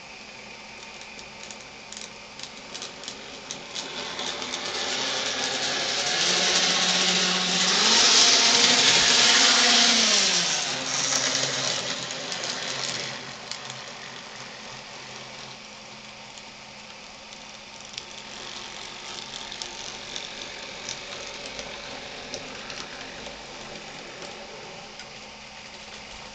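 N gauge model locomotive running on the track: a small motor hum with clicking and rattling of wheels on the rails, growing louder over several seconds, dropping in pitch and fading away about halfway through, leaving scattered light ticks.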